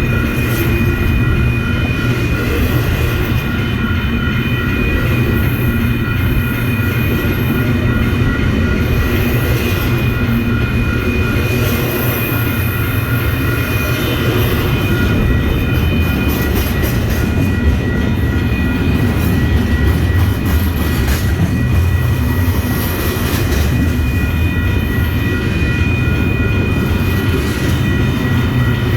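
A train rolling steadily past, a continuous rumble with scattered clicks from the wheels and a few steady high ringing tones.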